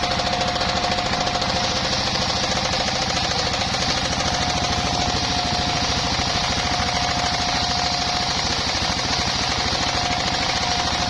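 Engine-driven circular sawmill running steadily: a fast, even engine beat with a steady high tone held over it.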